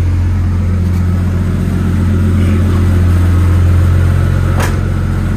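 Nissan RB25DET Neo turbocharged straight-six idling steadily at operating temperature during coolant bleeding, mixed with the running of a large drum shop fan. A brief click about four and a half seconds in.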